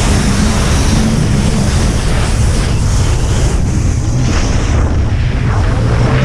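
Jet ski engine running at speed over water, its hum mixed with heavy wind and water-spray noise.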